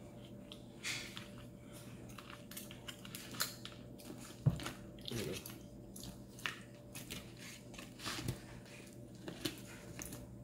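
Close chewing and mouth sounds of someone eating chili cheese fries, with scattered clicks and taps as a plastic fork works in the plastic tray; the sharpest tap comes about four and a half seconds in.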